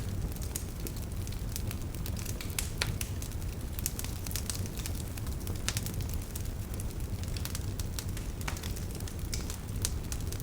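Wood fire burning in a fireplace: a steady low rumble of the flames with scattered sharp pops and crackles of burning wood, a few every second.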